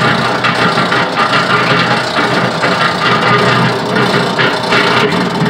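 Homemade sand muller running: the motor-driven drum turns with a steady hum and a dense mechanical rattle as the unsprung roller wheel rides over a stick placed in its path.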